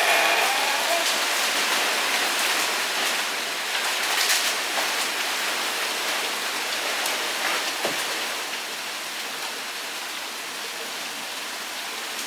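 Steady rushing hiss of water with scattered sharp ticks of drops.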